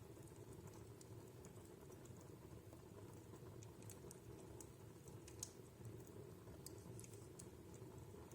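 Wood fire in a fireplace crackling faintly: scattered small pops and snaps over a low steady rumble, with one slightly louder pop about five and a half seconds in.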